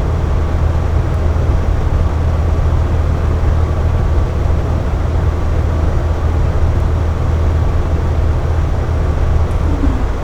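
Air conditioner running steadily, a constant low hum under an even whooshing of air.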